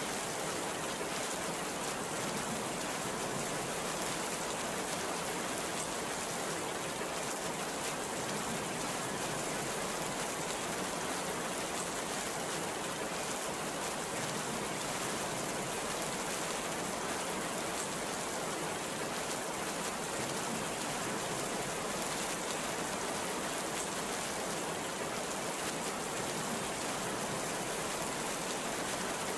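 Very heavy rain falling in a steady, even downpour.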